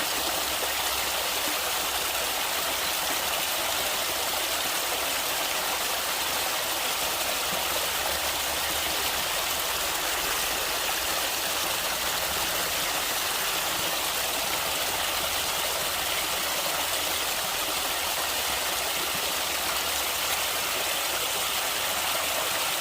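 Natural running water flowing steadily: an even, unbroken hiss, strongest in the upper range with little low rumble.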